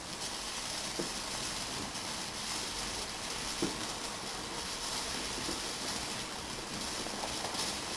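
Fireworks display heard from the crowd: a steady hissing wash with a few short, dull thumps, the clearest about a second in and again past the middle.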